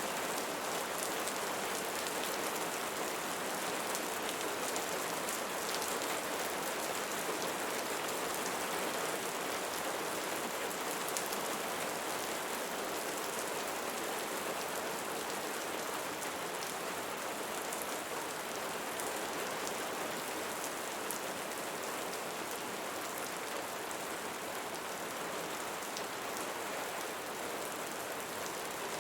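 Steady rainfall, an even hiss with fine drops pattering on a surface.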